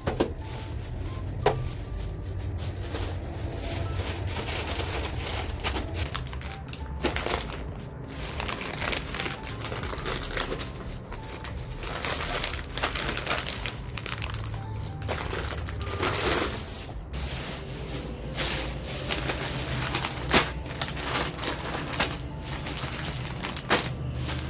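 Plastic packaging crinkling and rustling in irregular bursts as groceries are handled, over background music.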